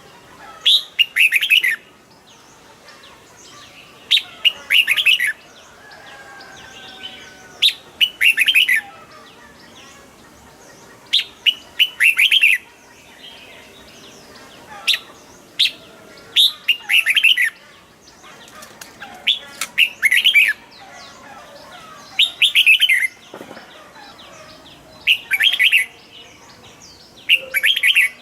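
Red-whiskered bulbul singing: short, bright phrases of a few quick notes, repeated about every three to four seconds.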